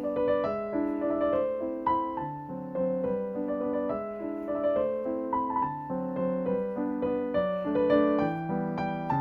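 Background piano music: a gentle melody of single notes and chords, played at an even pace.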